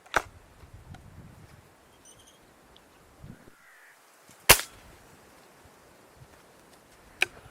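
Air rifle shot, a single sharp crack about four and a half seconds in, from a Hatsan Striker Edge break-barrel spring-piston air rifle. Two lesser sharp clicks come near the start and near the end, and crows caw faintly in the background.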